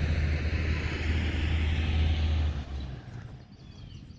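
A motor vehicle going by: low engine rumble and tyre hiss that swell and then fade away about three seconds in.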